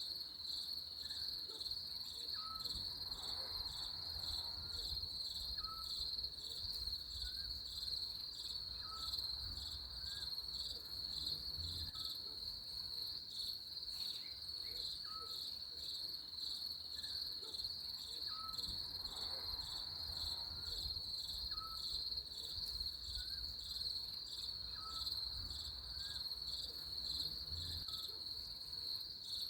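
Crickets chirping in a steady, fast-pulsing high trill, with a faint short chirp from another animal repeating about every second and a half.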